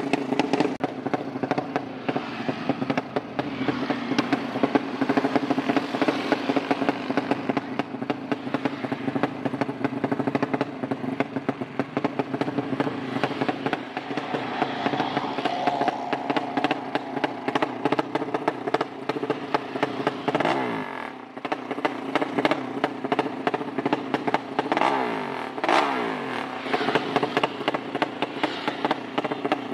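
Drag-race motorcycle engine running on the stand during tuning, crackling and uneven, with the throttle worked so the revs rise and fall. There are noticeable dips and swoops in pitch about two-thirds of the way through.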